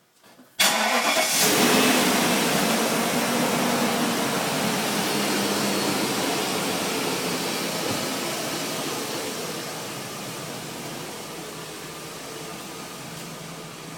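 1998 BMW 740i's 4.4-litre V8 cold-starting after sitting a little over a day: it catches suddenly about half a second in, then runs at a fast idle that slowly eases off. It runs with no strange noises.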